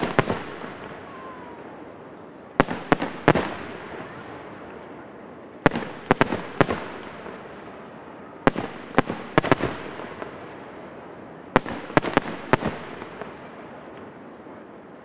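Fireworks display: aerial shells bursting in quick clusters of three or four sharp bangs about every three seconds, each bang trailing off in a long echo.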